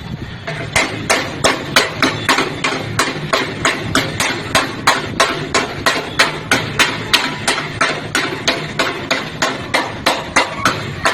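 Hammer blows on car body sheet metal during denting work, struck in a steady, rapid rhythm of about three to four blows a second, starting about a second in.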